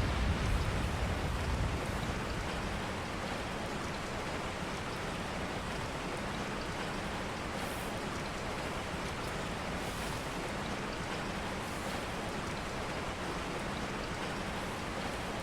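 Steady rain falling on a surface, with a low rumble of thunder fading out in the first couple of seconds.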